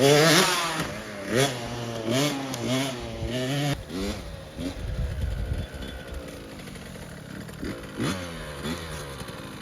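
65cc two-stroke dirt bike engine revving up and dropping back several times as the rider works up through the gears, then running quieter after about four seconds, with one more rise in pitch near the end.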